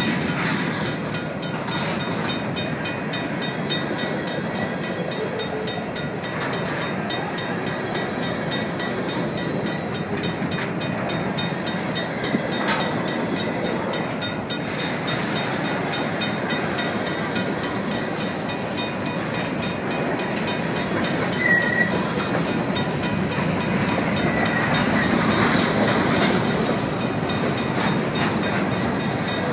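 Union Pacific grain train's covered hopper cars rolling past close by: a steady running noise of steel wheels on the rails.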